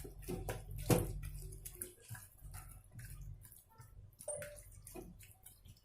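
Chicken pieces being mixed by hand in a bowl with a wet egg-and-lemon marinade: irregular wet squelches and small clicks, the loudest about a second in.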